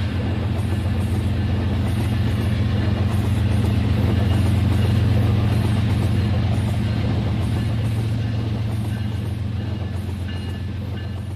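RailKing model train running along the track with a steady motor hum, growing louder toward the middle and fading again as it passes.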